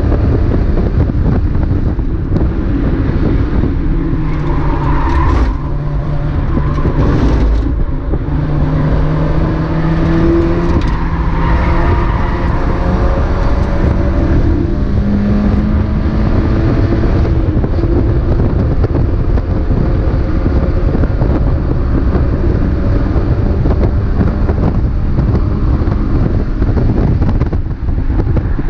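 Mazda MX-5 race car's four-cylinder engine running hard over heavy road and wind noise. Its pitch climbs and drops again and again with acceleration, lifts and gear changes, with two short dips in loudness a few seconds in.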